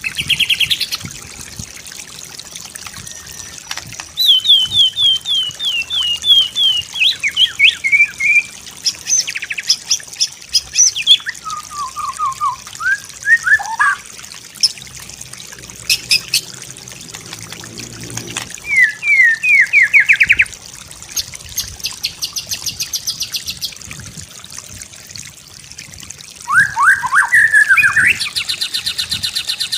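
White-rumped shama singing varied phrases with short pauses between them: fast runs of repeated notes, sliding whistles and rapid trills. A faint steady trickle of water runs underneath.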